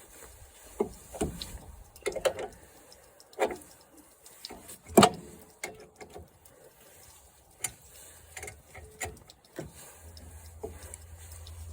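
Scattered clicks and knocks of tools and metal parts being handled while a lawn mower is taken apart, the loudest knock about five seconds in.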